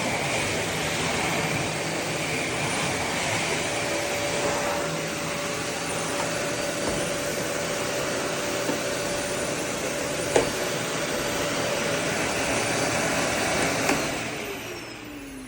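Eureka WhirlWind NEN110A bagless canister vacuum running steadily on high suction while picking up dog hair, with a single sharp click about ten seconds in. Near the end it is switched off and the motor winds down with a falling whine.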